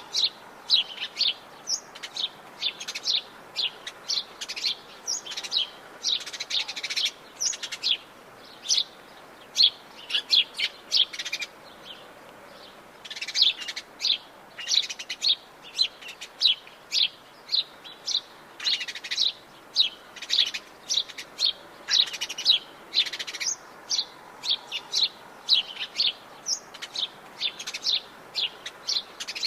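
Wild birds singing and chirping: a dense run of short, high chirps in quick succession over a faint steady background hiss, with a brief lull about twelve seconds in.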